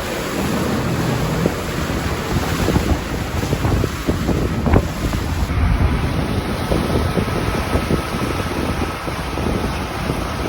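Wind buffeting the microphone on a boat under way, over the steady rush of sea water along the hull.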